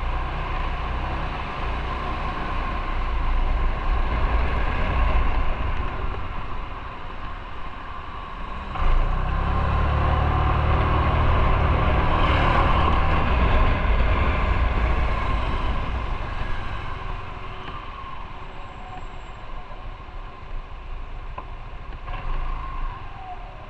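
Motorcycle running on the road, its engine picking up sharply about nine seconds in and easing off over the last several seconds.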